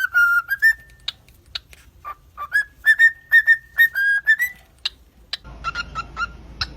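A pet bird whistling a string of short repeated notes, some rising slightly. About five seconds in, the background turns noisier and a quicker run of short calls follows.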